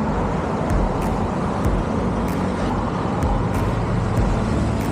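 Motorcycle ridden along a road: engine running steadily under a dense rush of road noise, with scattered faint ticks.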